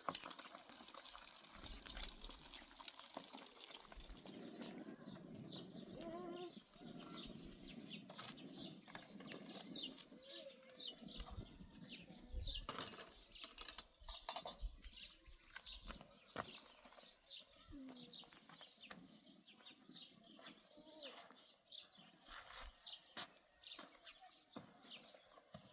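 Small birds chirping, short quick high notes repeating throughout, with scattered clicks and knocks and a stretch of low rustling near the start.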